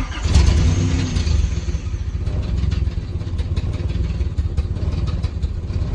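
1985 Nissan 300ZX's V6 engine running through a loud exhaust. It is louder for the first couple of seconds, then settles into a steady, low throb.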